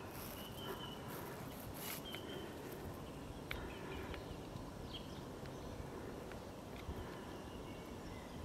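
Scattered short bird chirps over a steady low outdoor rumble, with a few faint clicks.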